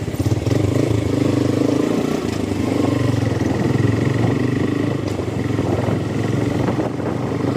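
Motorcycle engine on a modified Suzuki Gixxer, running steadily under way as it is ridden, its pitch rising and falling slightly with the throttle.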